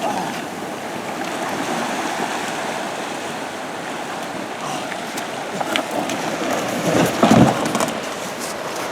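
Ocean water sloshing and lapping around a kayak, a steady wash with a louder rush about seven seconds in.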